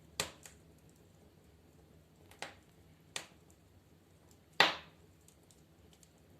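Burning firewood crackling in a fireplace stove: sharp, irregular pops, about five of them, with the loudest snap near the end.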